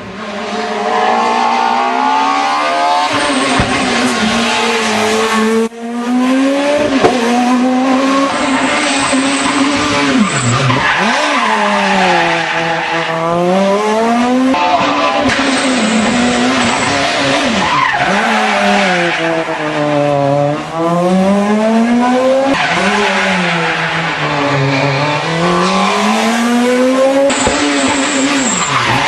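Dacia Logan S2000 rally car engine revving hard, its pitch climbing and dropping again and again every few seconds as it accelerates and lifts off through corners.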